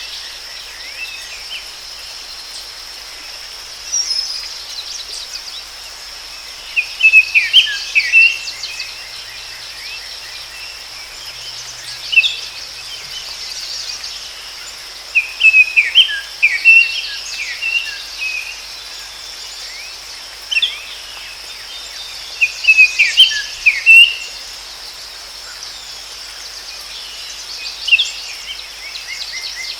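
Forest birds singing in short bursts of chirping phrases every few seconds, over a steady high-pitched buzz of insects.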